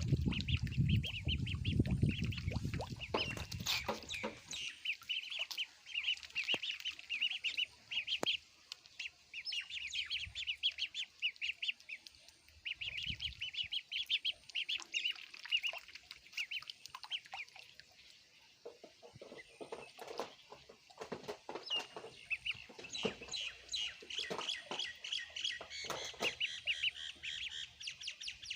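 Ducklings peeping: many rapid, high chirps in overlapping runs throughout, with a low rumbling noise in the first few seconds.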